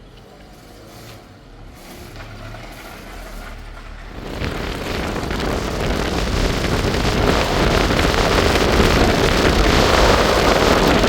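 A vehicle on the move: a low engine rumble, then from about four seconds in a loud, steady rush of wind and road noise that holds to the end.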